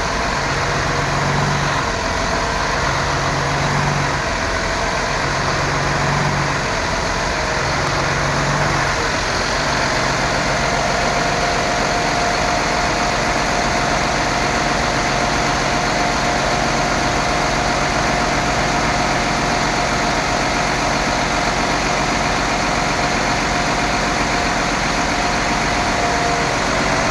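Freightliner vacuum truck's diesel engine running steadily at idle. A low hum swells and fades four times in the first nine seconds, and a steady higher whine sets in about ten seconds in.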